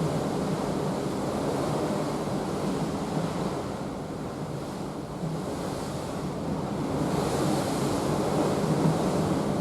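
Open-ocean waves and wind heard from the balcony of a moving cruise ship: a steady rush of water with wind buffeting the microphone, the hiss growing a little stronger about seven seconds in.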